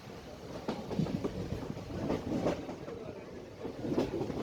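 Train running on the line, its wheels clacking irregularly over rail joints above a steady running noise.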